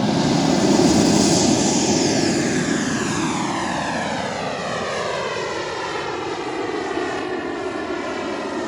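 Turbine engine of a large radio-controlled BDX jet flying past, loudest about a second in and then slowly fading as it moves away.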